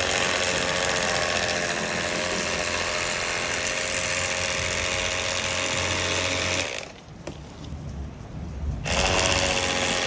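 Cordless electric fillet knife running, its reciprocating blades buzzing steadily as it cuts through a perch. It stops about two-thirds of the way through and starts again about two seconds later.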